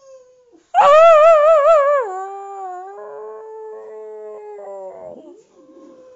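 A boxer dog and a person howling together, long drawn-out howls overlapping. About a second in a much louder howl starts with a fast wavering pitch, slides down and holds steady until about five seconds, while a quieter steady howl carries on underneath and after it.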